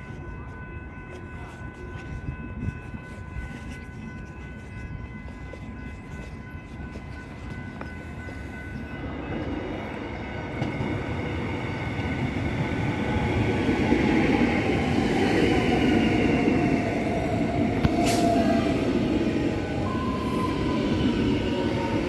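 Running sound of an electric suburban train heard from aboard. A steady high whine comes first; then the rumble of the wheels on the rails grows louder over the second half, with a motor whine that shifts in pitch. There is one sharp click late on.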